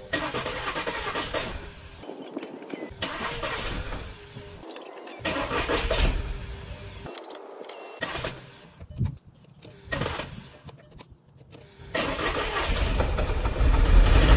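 A 2014 Volkswagen Tiguan's 2.0-litre turbo four-cylinder being cranked in several tries with short pauses, slow to start with its cylinders still wet from a solvent soak. About twelve seconds in it catches and keeps running, louder and lower.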